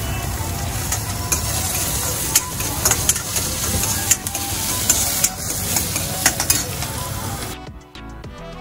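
Chopped onions and tomatoes sizzling as they are stir-fried in a steel wok over a gas burner, with a steel ladle scraping and clicking against the pan. Near the end it cuts abruptly to background music.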